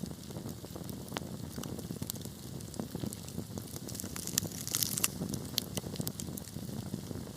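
Wood fire crackling: irregular sharp pops and snaps over a steady low rumble of flames, with a denser cluster of crackles about halfway through.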